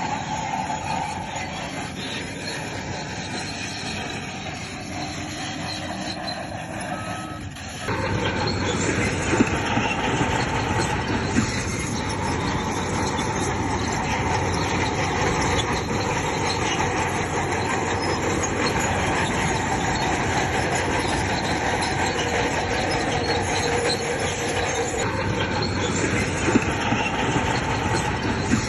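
Crawler bulldozer at work, its diesel engine running under load and its steel tracks grinding and squealing. The sound gets louder about eight seconds in, with a few sharp clanks.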